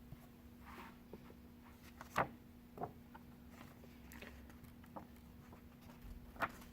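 Quiet room tone with a faint steady hum, broken by a few soft clicks or taps about two seconds in, just under three seconds in and near the end.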